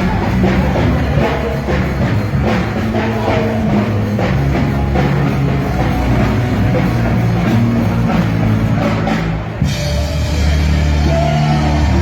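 Live rock band playing loud amplified music, a drum kit beating over sustained bass notes. Near the end the drumming stops abruptly, leaving held bass and guitar-like notes ringing.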